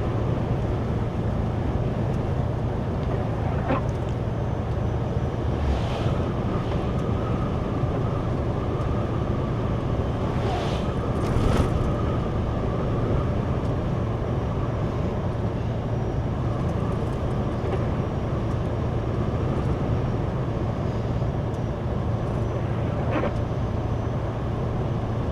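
Steady engine drone and road noise heard inside a moving truck's cab, with a few faint brief clicks scattered through.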